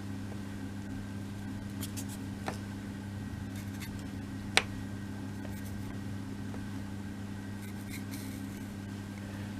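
A few faint light clicks and one sharper tick about four and a half seconds in, from small laser-cut kit pieces being handled during gluing, over a steady low electrical hum.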